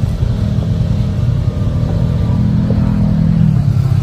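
Off-road vehicle engine running steadily while driving a trail, its pitch rising slightly near the end.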